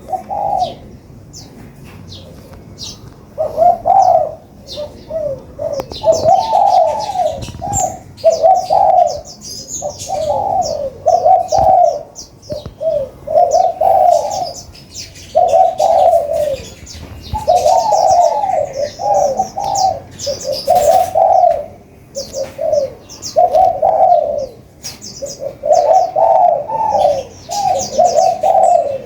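Spotted doves cooing in repeated phrases, one after another, with sunbirds' high, quick chirps over them.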